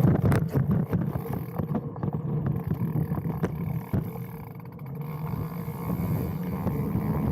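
Mountain bike rolling down a trail heard from a handlebar-mounted camera: a low rumble of tyres and wind on the microphone, with sharp knocks and rattles from the bike over bumps in the first couple of seconds, settling to a steadier rumble.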